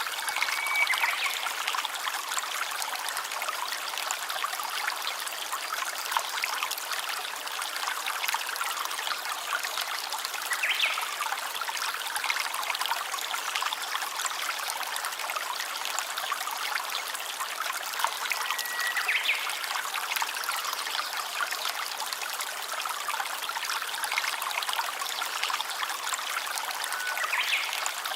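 A stream trickling and running steadily, with about four brief whistled notes, spaced roughly eight seconds apart, rising above the water.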